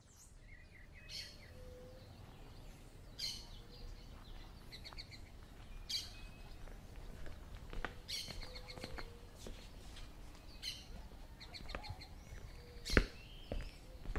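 Birds chirping outdoors: short bursts of quick repeated high notes every two seconds or so, over a faint low background hum of the open air. A single sharp knock near the end is the loudest sound.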